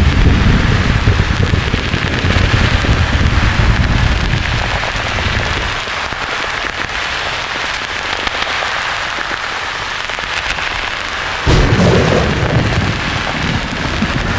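Thunder over a steady white-noise hiss: a rolling rumble dies away about six seconds in, then a sudden thunderclap cracks about eleven and a half seconds in and rumbles on.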